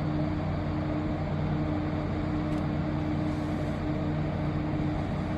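Towboat's diesel engines running steadily, a low hum with a constant pitch.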